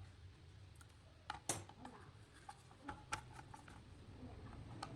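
Hand work on the fan's parts: a few sharp light clicks and taps, the loudest about a second and a half in, over a low steady hum.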